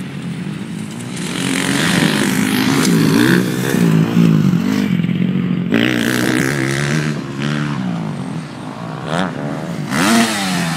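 Motocross bike engines revving hard on a dirt track, the pitch climbing and dropping again and again as riders work the throttle through the gears. The engine sound dips sharply about halfway through and rises quickly near the end.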